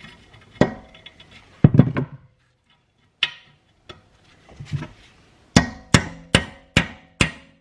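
Hammer blows on steel suspension parts, each strike ringing. A few scattered knocks at first, then a steady run of strikes, about two and a half a second, through the last couple of seconds.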